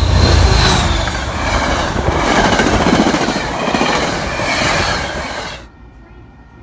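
An MBTA commuter train passing close at speed, diesel locomotive then coaches, with steel wheels rushing and clacking over the rails and a high wheel squeal in the first second. It cuts off abruptly near the end, leaving a much quieter background with faint steady high tones.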